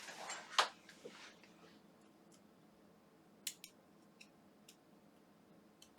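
Small tool and fingers working at the plastic parts of an opened electric toothbrush, trying to pry a piece off: a short scrape, a sharp click about half a second in, then a few faint scattered ticks, one louder near the middle.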